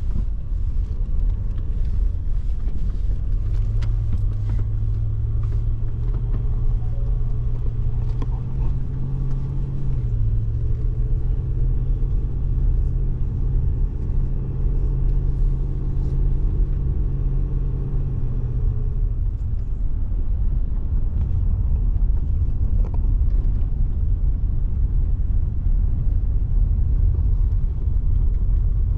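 Pickup truck driving slowly with its travel trailer in tow: a continuous low road rumble, with a steady engine hum that comes in a few seconds in, shifts slightly in pitch about a third of the way through and fades out about two-thirds of the way through.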